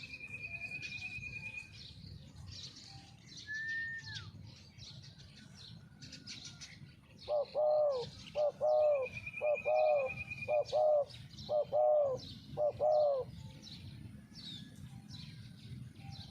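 Spotted dove cooing: a run of about six low coos about halfway through. Small birds trill and chirp around it.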